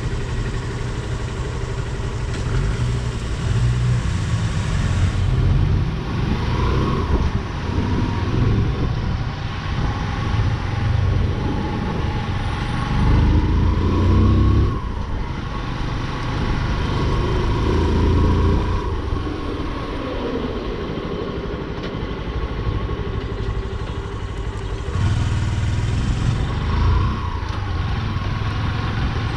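Motorcycle under way, heard from the rider's seat: the engine's pitch rises and falls with the throttle, over steady wind and road rumble.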